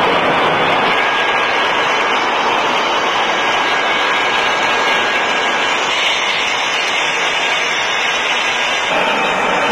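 Airliner's engines during a landing: a steady, loud rushing noise with a faint high whine held through it.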